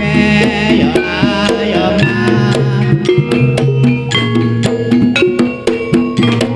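Banyumasan jaranan gending music played loud, with strong bass. Ringing pitched percussion tones and sharp, frequent drum strokes sit over a heavy low bass line.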